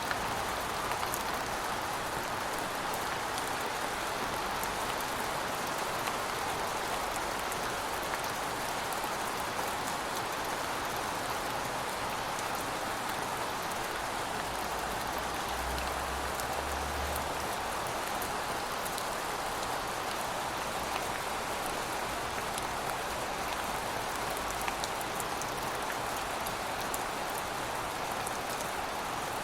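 Steady rain falling, a continuous even hiss with many fine drop patters on a surface.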